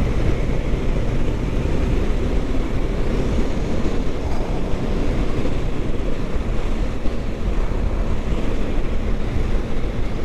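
Steady wind rushing over the microphone of a moving motorcycle, with a Kawasaki Ninja 650's parallel-twin engine running underneath.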